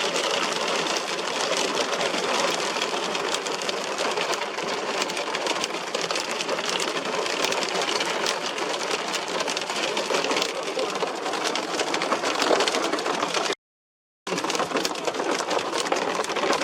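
Hailstones pelting down in a dense, rapid clatter of hard hits. The sound breaks off for a moment near the end, then resumes.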